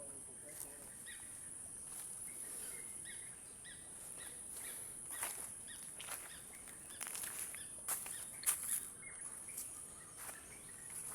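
Forest ambience: a steady high-pitched insect drone with scattered short bird chirps, and a few sharp clicks, the loudest a little over eight seconds in.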